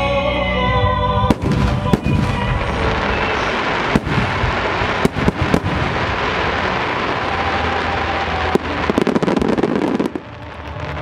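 A volley of large aerial firework shells (shakudama) bursting in quick succession. About a second in, a song on loudspeakers is cut off by a dense run of booms and a continuous rumble, with sharp reports standing out several times. A thick crackle swells near the end before the music comes back.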